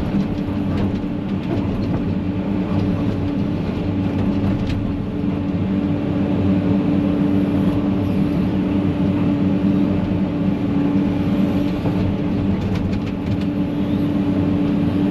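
Excavator's diesel engine running at a steady speed, a constant drone, with a few faint knocks.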